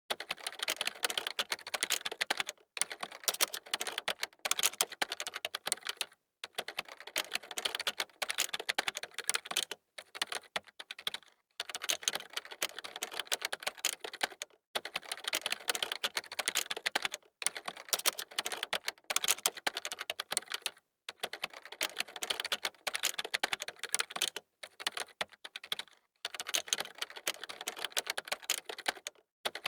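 Fast typing on a computer keyboard: rapid runs of key clicks, broken every two or three seconds by a brief pause.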